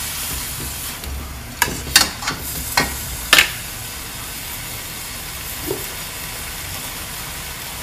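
Marinated chicken pieces with onion and tomato frying in a stainless steel pan, sizzling steadily. A metal spatula knocks and scrapes against the pan about five times in the first few seconds, then only the sizzle goes on.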